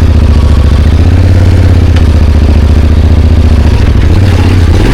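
Motorcycle engine running steadily at low revs, its note changing about four seconds in.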